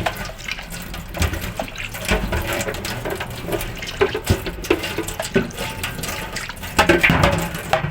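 Water running and splashing in a sink while fridge parts are washed, with occasional knocks of items being handled.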